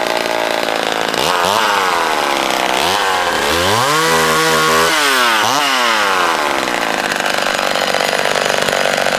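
McCulloch Mini Mac 35 two-stroke chainsaw running at high revs. Its pitch drops three times, deepest about three seconds in, where it falls to a low, slow run for over a second before climbing back. It then runs steadily at full speed.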